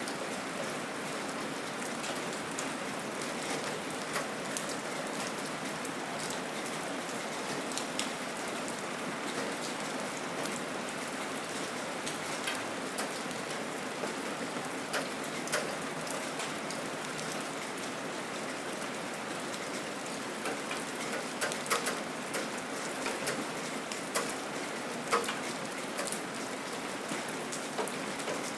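Steady rain falling, with individual louder drops striking close by now and then, more often in the second half.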